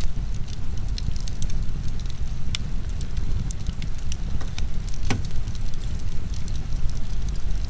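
Heavy rain as a steady low rush, mixed with a wood fire crackling: scattered sharp pops and snaps, one louder pop about five seconds in.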